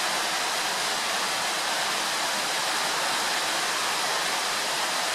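Steady, even hiss with no knocks or clicks on top of it.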